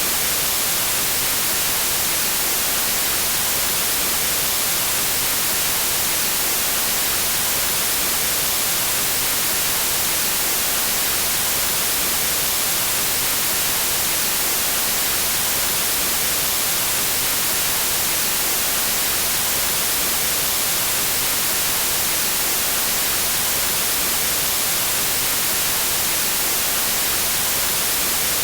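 Steady synthetic white noise: an even hiss across the whole range, strongest in the highs, with no change.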